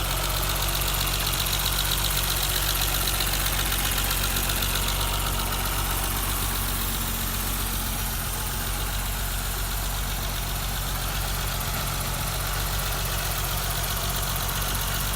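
1988 BMW 325's straight-six engine idling cold, heard up close at the fuel injectors: a fast, even clicking over the steady engine hum.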